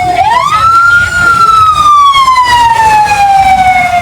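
A siren wailing. Its pitch rises over about a second, falls slowly for nearly three seconds, and starts to rise again at the very end, all over a low rumble.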